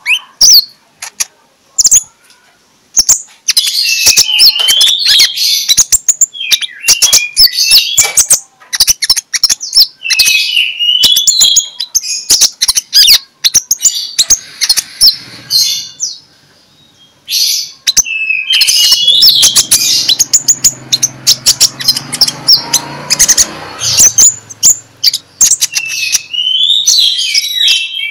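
Brown-throated sunbird (konin, kolibri ninja) singing a long, fast run of sharp high chirps and twittering phrases with brief pauses. A faint low rumble sits beneath the calls for a few seconds past the middle.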